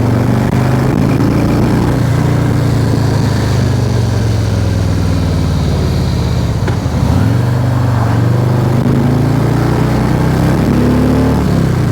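Harley-Davidson V-twin motorcycle engine running under way, its note rising and falling with the throttle. About seven seconds in the engine note drops briefly, then picks up again.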